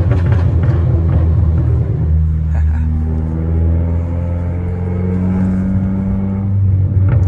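Engine and exhaust of a Stage 2 tuned 2015 Audi S3, a turbocharged 2.0-litre four-cylinder, heard from inside the cabin. It drones steadily at low town speed, its pitch rising gently through the middle as the car pulls on a little.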